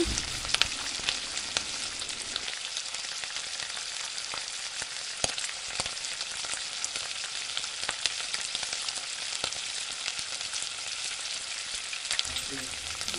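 Tomato gravy sizzling steadily in a non-stick kadhai on a gas flame, with scattered clicks from a spatula stirring it.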